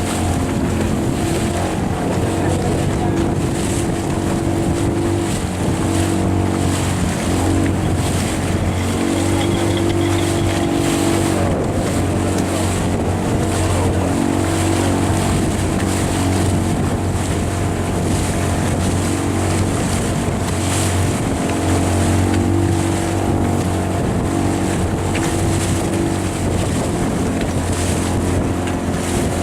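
Outboard motor of a small boat running steadily under way, with water rushing past and wind buffeting the microphone.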